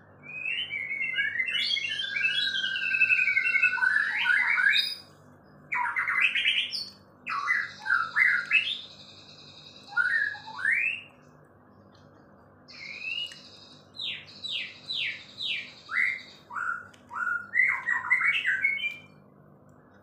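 A songbird singing long, varied phrases of rapid whistled sweeps, trills and high held notes, in three bouts with short pauses between them.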